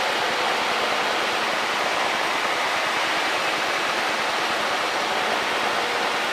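Steady rushing hiss of Cessna 152 cockpit noise picked up through the headset intercom, even and unbroken, with little deep rumble.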